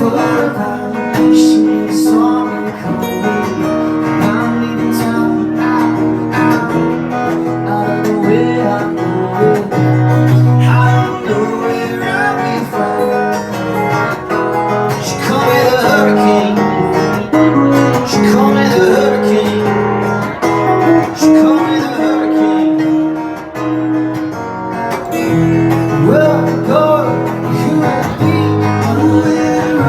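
Acoustic guitar strummed and picked, playing a song.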